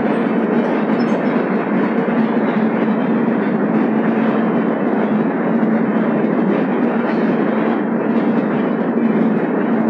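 Express passenger train running at speed through a rock tunnel, heard from an open coach door: a steady, loud rumble of wheels on rail with a continuous low hum, closed in by the tunnel walls.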